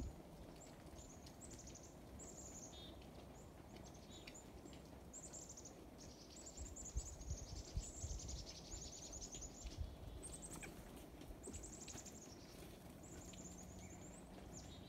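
Small birds calling in the background: a run of short, high-pitched trilled chirps, one after another, over a faint low rumble.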